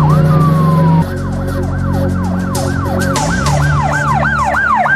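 Police car siren on a fast yelp, its pitch sweeping up and down about three times a second over a steady low hum. About a second in, one pitch glides down and then cuts off. A second yelp siren follows.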